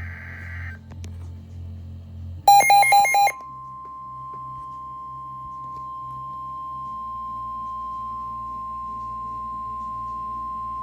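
NOAA Weather Radio emergency alert tones. Under a second of warbling digital data tones comes first, then about two and a half seconds in a loud, rapid run of stepped electronic beeps. After that the steady 1050 Hz warning alarm tone holds for about nine seconds, the signal that a warning message follows.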